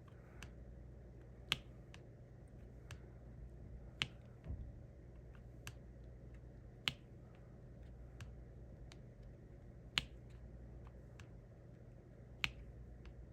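Diamond painting pen tapping resin drills into place on the canvas: five sharp clicks a few seconds apart, with lighter ticks between them.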